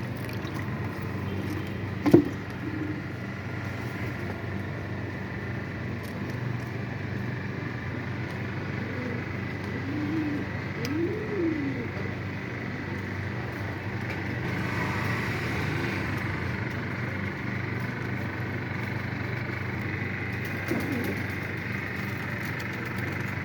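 Pigeons cooing: a few low, rising-and-falling coos, clustered near the middle and again near the end, over a steady low hum. A sharp knock about two seconds in.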